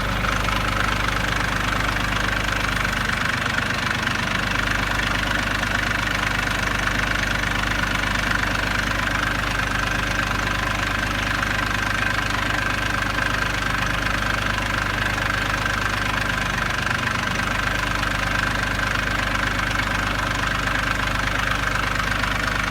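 A 1993 Ford 1720 tractor's 28 hp Shibaura three-cylinder diesel engine running steadily, with a thin steady high whine over the engine note.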